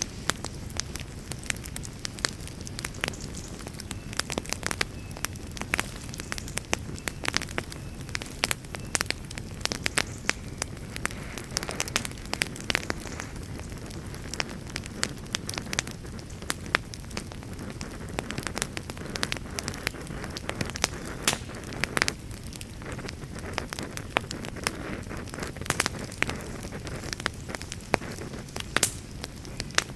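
Wood campfire crackling steadily, with many irregular sharp cracks over a low steady rush.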